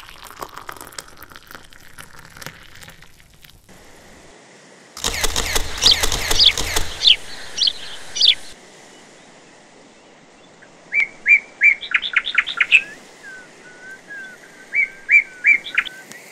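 Birds chirping: a run of sharp, falling chirps about five seconds in, then two quick series of short chirps near the end, over a steady hiss.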